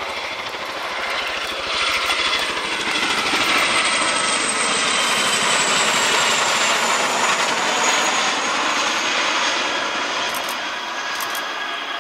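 Aircraft turbine engines running: a loud rushing noise with a high whine that swells and then eases off, its pitch falling slowly as it passes.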